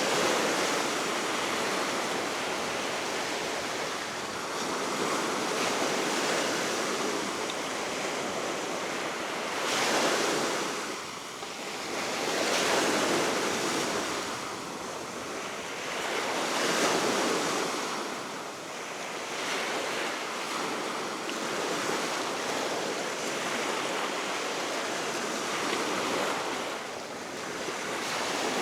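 Baltic Sea waves washing onto the shore in a steady wash that swells and eases every few seconds, with steady wind over it.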